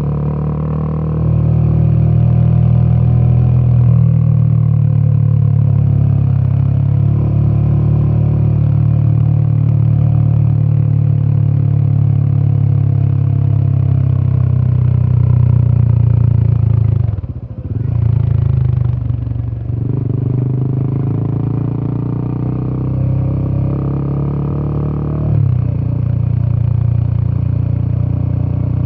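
Royal Enfield Himalayan 450's single-cylinder 450cc Sherpa engine and exhaust running under way on the road, a steady deep note. About two-thirds through the note drops away suddenly and builds back up over a couple of seconds, and it shifts abruptly again near the end.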